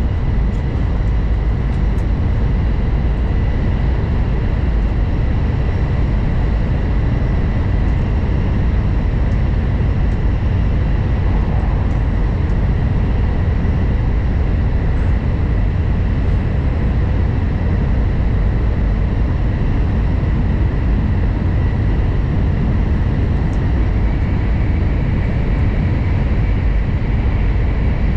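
N700 Series Shinkansen running at speed, heard from inside the passenger cabin: a loud, steady low rumble with a faint steady high tone running through it.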